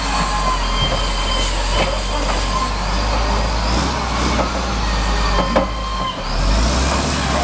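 Heavy diesel engine running steadily under a log-loading crane, with a steady whine and several sharp knocks of logs being handled. About six seconds in the engine note shifts and a rising whine starts.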